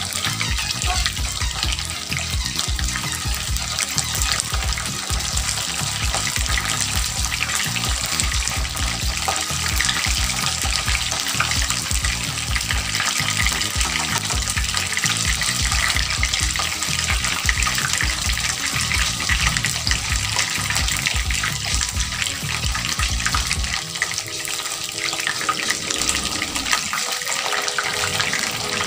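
Breaded chicken strips sizzling and crackling in hot oil in a frying pan. Background music plays underneath, with a steady low beat that gives way to a melody near the end.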